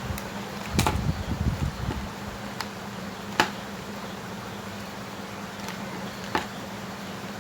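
Knocks and a short clatter about a second in, then a few sharp clicks, as parts of a battery-powered kids' ride-on car are handled, over a steady low hum.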